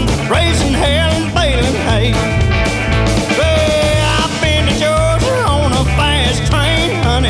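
Outlaw country band playing at a steady beat: bass and drums repeating under a melodic lead line that slides up and down in pitch.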